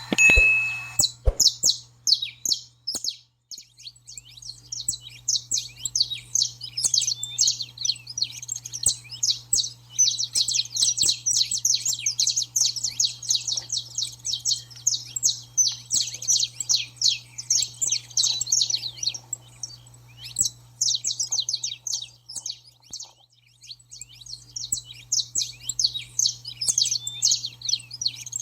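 Saffron finch singing a fast, busy run of high chirps, the hurried 'baderna' song style, with short breaks about two-thirds of the way through. A steady low hum runs underneath.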